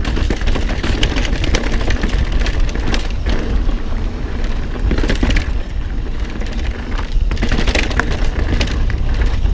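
Mountain bike riding fast over a rough dirt trail: wind buffeting the camera microphone, with tyre noise and a steady clatter of the bike rattling over bumps.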